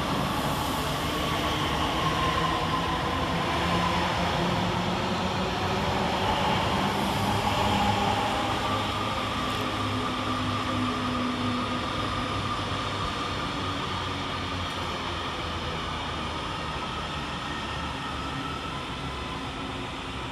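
Class 331 electric multiple units moving through the station: a steady rumble with electric traction motor whine whose pitch shifts up and down, fading away over the last few seconds.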